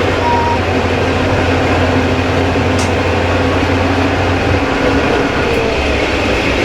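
KiHa 20 diesel railcar under way, its DMH17 diesel engine droning steadily over the running noise of the wheels on the rails. The engine note drops lower about four and a half seconds in.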